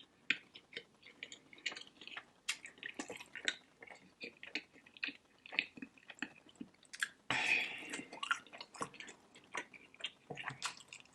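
Close-miked eating sounds: wet chewing with lip smacks and quick mouth clicks in an irregular patter. About seven seconds in there is a short breathy sound.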